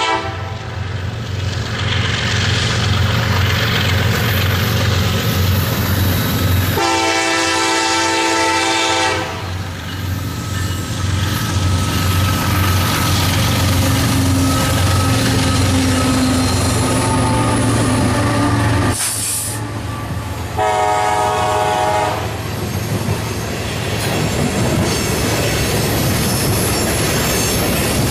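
Diesel freight locomotives, a KCS EMD SD70ACe leading a BNSF GE ES44C4, passing with a heavy engine rumble while the horn sounds twice: a long blast about seven seconds in and a shorter one around twenty seconds. After the locomotives pass, the low rumble drops away, leaving the rolling noise of the train's cars with wheels squealing near the end.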